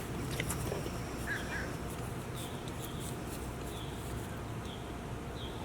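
Small bird chirping outdoors: short high chirps repeating about once a second, over a steady low background rumble.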